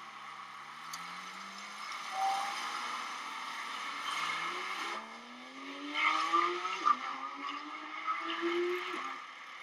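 A vehicle engine accelerating, its pitch climbing steadily, dropping suddenly about seven seconds in and then climbing again.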